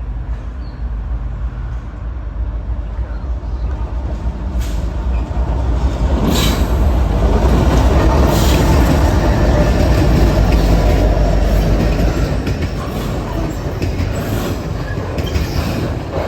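Norfolk Southern freight train rolling past: a heavy low rumble with steel wheels clicking over the rails, growing louder toward the middle of the pass.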